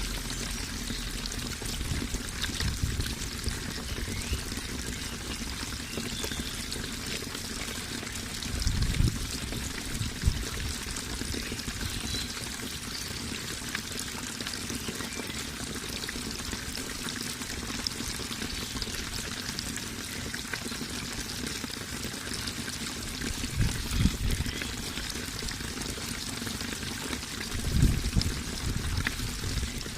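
Running water pouring and trickling steadily, with a few brief low rumbles in the water's flow.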